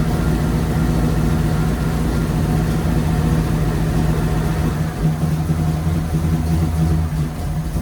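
Ford flathead engine with twin carburetors running steadily at idle, its spark plugs freshly cleaned of carbon. It runs smoother, yet still almost sounds like it is missing a cylinder.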